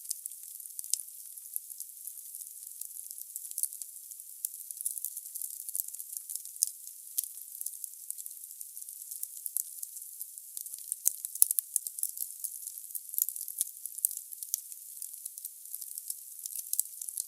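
Wood logs burning in a fireplace: a thin, high-pitched stream of fast, irregular crackles over a soft hiss, with a short cluster of louder pops about two-thirds of the way through.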